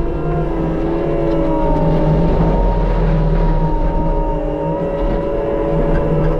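Case skid steer's diesel engine running under load while its Shearex hydraulic mulching head spins, cutting weeds. It makes a steady, loud drone with a whine of several tones that drift slightly in pitch.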